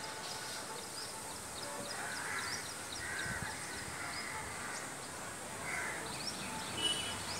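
Birds calling outdoors: many quick, high chirps repeating throughout, with a few harsher, lower calls now and then.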